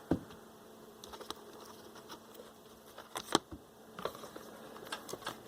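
Scattered light clicks and knocks of hands working on a small vintage transistor radio and its metal shield, the sharpest about three seconds in, over a faint steady buzz.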